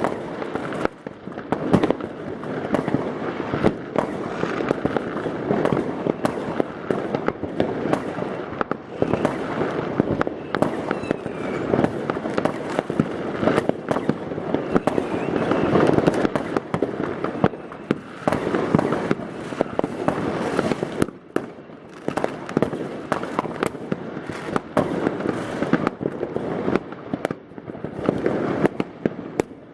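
New Year's Eve fireworks: many rockets and firecrackers going off at once, a continuous dense barrage of bangs and crackling with no pause, loudest about halfway through.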